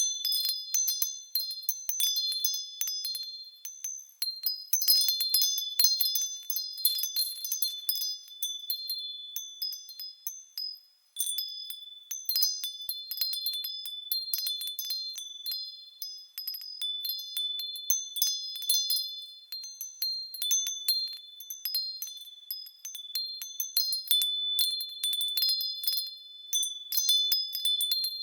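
Japanese wind chimes (fūrin) swinging in the breeze, their clappers striking irregularly and setting off overlapping high, clear ringing tones, with a brief lull about eleven seconds in.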